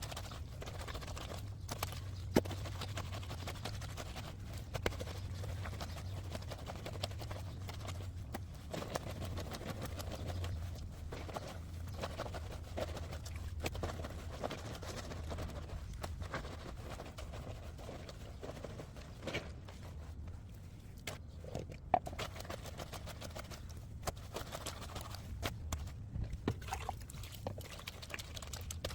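Laundry being worked by hand on a concrete washing station: scattered soft knocks and slaps of wet fabric and handling over a steady low hum.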